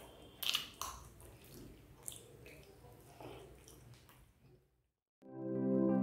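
Faint close-up chewing and wet mouth clicks of someone eating, trailing off into a moment of silence; about five seconds in, soft ambient keyboard music begins.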